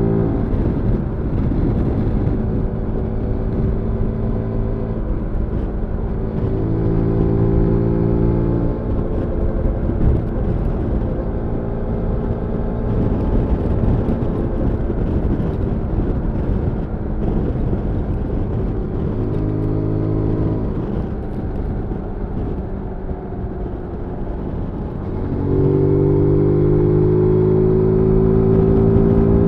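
2022 Zontes G1 125 scrambler's single-cylinder engine on the move, pulling under throttle several times with its pitch climbing as it accelerates, and easing off in between, where the engine note sinks into a rushing noise. About 25 seconds in, it opens up and gets louder, pitch rising.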